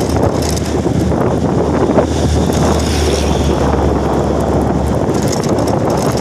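Wind buffeting the microphone over a heavy vehicle's diesel engine droning past, the low drone dropping away near the end.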